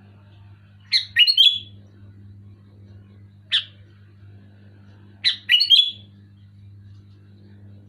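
Sooty-headed bulbul singing: two short, loud phrases of quick gliding whistled notes, about a second in and again about five seconds in, with a single short call between them. A steady low hum runs underneath.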